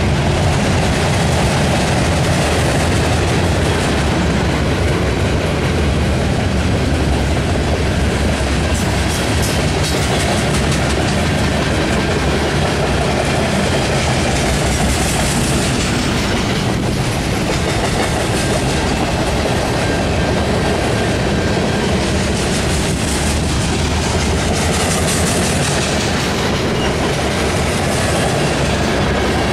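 Freight cars (gondolas, a covered hopper, and bulkhead flatcars loaded with lumber) rolling past close by: a steady rumble and clatter of steel wheels on the rails.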